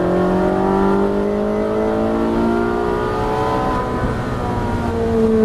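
A car's engine under full throttle accelerating out of a corner on a race track. The engine note climbs steadily, then changes near the end as the gearbox shifts.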